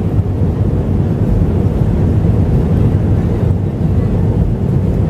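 Loud, steady engine and airflow rumble heard inside the cabin of an Airbus A321-200 airliner.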